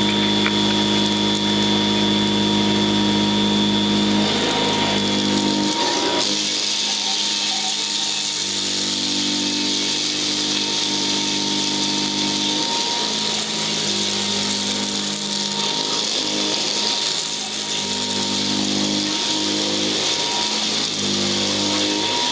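Royal Model 608 upright vacuum running steadily, its motor and metal fan giving a steady high whine, with a lower hum that drops out and comes back several times.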